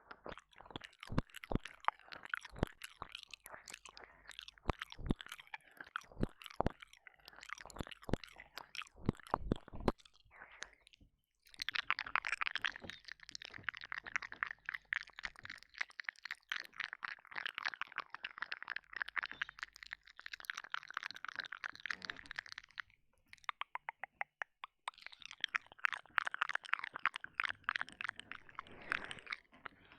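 Close, wet mouth sounds into a binaural dummy-head ear microphone: sharp separate mouth clicks and smacks for the first ten seconds, then a long stretch of dense, fast wet licking. After a short run of quick even clicks, the dense licking comes back near the end.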